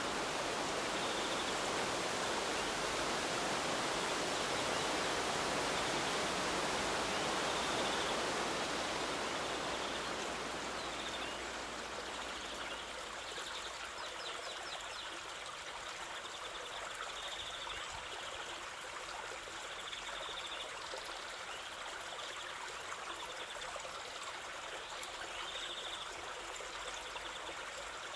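River water flowing with a steady rushing sound that grows quieter and thinner about ten seconds in. Faint short high chirps recur every couple of seconds over it.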